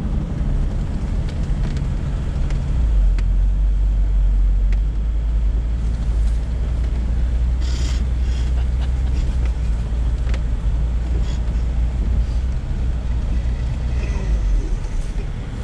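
Honda Accord's 3.0 V6 engine running as the car drives, a steady low rumble that grows louder about three seconds in. A brief rush of noise breaks in around eight seconds.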